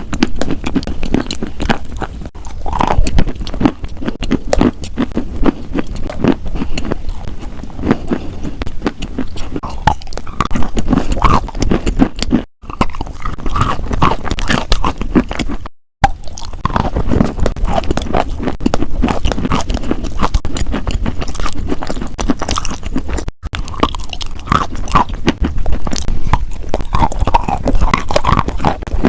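A person biting and chewing crunchy food, a dense run of irregular crunches and crackles that drops out briefly three times.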